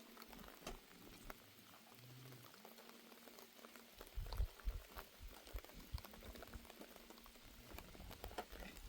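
Water boiling: a steady fizz of many small bubbling pops, with a few soft low knocks from about halfway.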